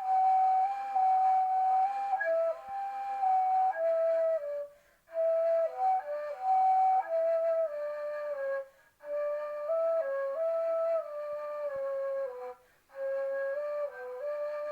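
Solo flute playing a slow melody, a Turkish folk song, one line of held and stepping notes broken by three short pauses for breath.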